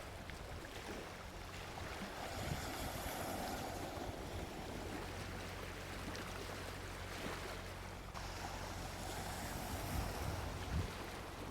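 Gentle sea waves washing onto a beach, swelling twice and easing back, with a few low thumps near the end. A faint steady low hum runs underneath.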